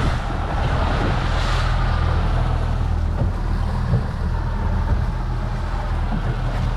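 Fishing boat's engine running steadily at trolling speed, a constant low hum, with wind and water noise over it.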